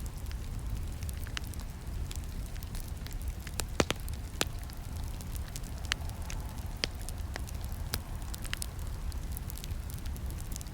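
Wood campfire crackling: scattered sharp snaps and pops over a steady low rumble of the flames, with the loudest pair of pops coming close together a little before halfway.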